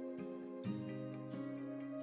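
Soft background music of held plucked-string and guitar chords, with the chord changing about two-thirds of a second in.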